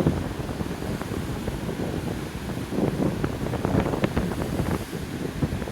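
Strong wind buffeting the microphone in irregular gusts, a low rumble, with sea surf beneath it.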